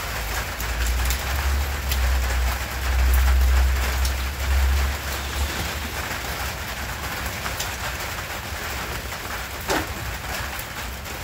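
Heavy rain falling steadily, with scattered single drop taps; a low rumble swells for a few seconds in the first half.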